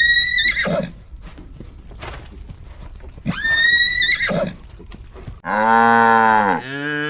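Horse whinnying twice, a high wavering call at the start and again about three seconds in, over a low background with scattered knocks. Then, about five seconds in, a cow gives a long low moo and starts a second.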